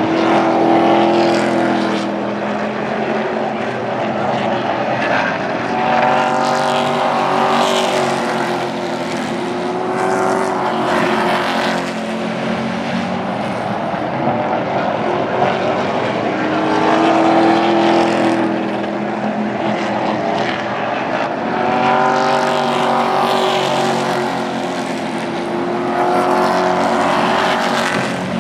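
Super Truck race trucks' engines running hard around the oval, swelling louder and fading again several times as trucks pass, their pitch rising and falling.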